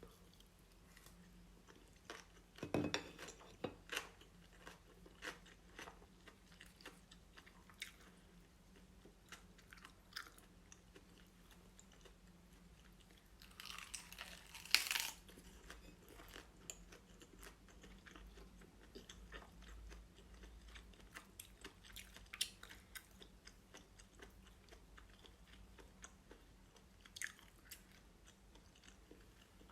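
Someone eating quietly: soft chewing with crunches now and then, and a few louder clicks in two clusters, about three seconds in and in the middle.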